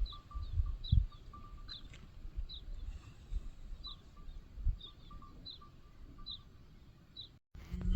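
A bird calling over and over, short high chirps about one or two a second, with low thumps underneath.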